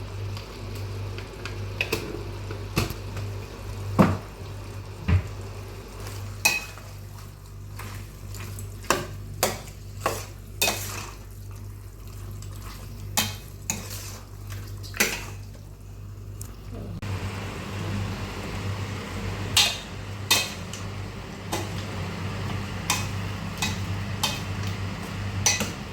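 A metal spoon stirring in a cooking pan, clinking and scraping against it in irregular knocks over a steady low hum.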